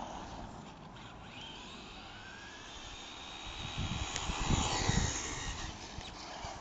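Electric drive motor of a 1/10-scale RC truck whining, its pitch rising and falling as it speeds up and slows down. It gets louder about four seconds in, with low thumps.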